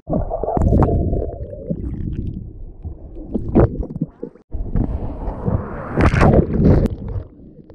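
Ocean waves and splashing heard close on a camera in the surf, a muffled, rumbling rush of water that swells and breaks, with an abrupt cut about halfway through.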